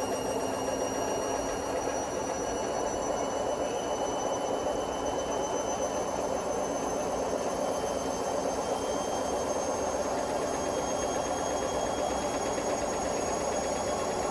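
Hotpoint Smart Tech WMFUG742 washing machine in its final spin with a load of bricks in the drum: a steady mechanical running noise with a whine that slowly rises in pitch as the drum picks up speed.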